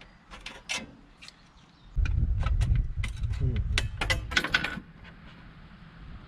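Thin 0.3 mm stainless steel sheet being cut by hand: a few sharp metallic snips, then about three seconds of louder, dense clicking and crunching over a low rumble, which stops suddenly near the five-second mark.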